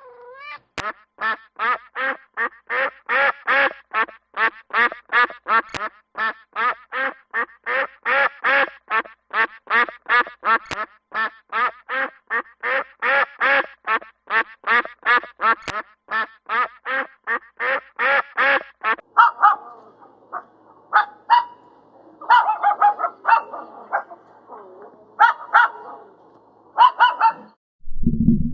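Duck quacking in a fast, even series of about three quacks a second, then scattered, irregular quacks for the last several seconds.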